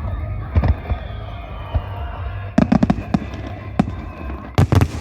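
Aerial fireworks shells bursting: sharp bangs, with a quick crackling cluster a little past the middle and a close pair of loud reports near the end.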